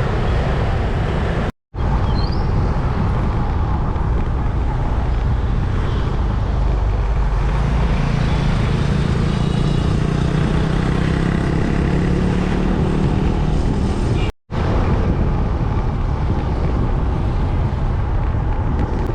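Steady motor-vehicle and traffic noise, with a low engine hum standing out through the middle. It is broken twice by split-second silent gaps.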